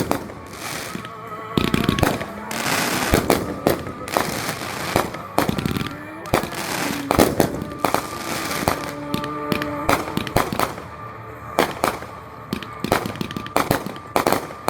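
Backyard consumer fireworks going off in quick succession: many sharp bangs and crackles throughout, with a country song playing underneath.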